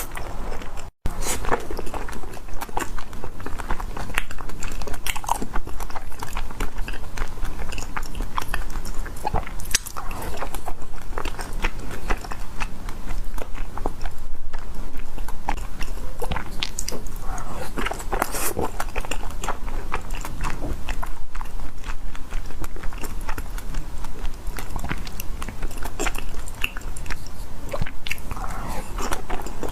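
Close-miked eating: a person biting and chewing food, a continuous run of short, sharp clicks and crunches, with a brief cut-out about a second in.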